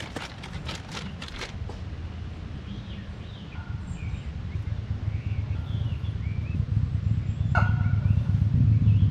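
Small birds chirping outdoors while a low engine rumble grows steadily louder, as of an approaching vehicle. A few short crunches sound near the start, and one louder bird call comes near the end.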